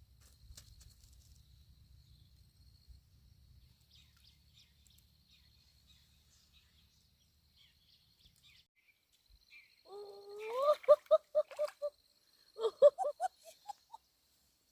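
A bird calling: one rising note, then a quick run of about seven repeated notes, with a second shorter run a second later. Before the calls there is only a faint thin high buzz.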